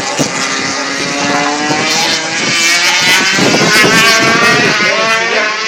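MotoGP race bike engines at high revs, the pitch rising and falling with gear changes, growing louder toward the middle and easing near the end.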